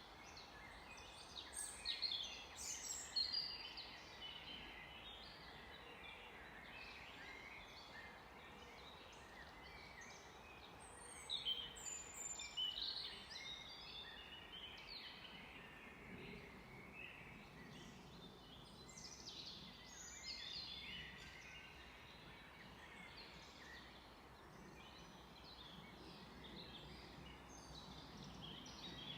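Wild songbirds singing and calling in scattered bursts of chirps and trills over a steady faint hiss, loudest about two seconds in and again about eleven seconds in.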